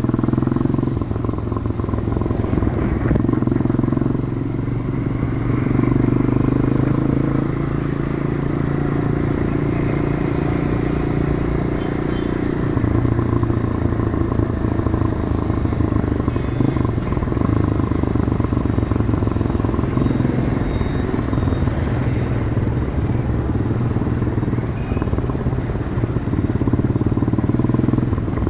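Demak DTM 150 motorcycle's single-cylinder four-stroke engine running through its stock exhaust while riding, the engine note rising and falling a few times as the speed changes.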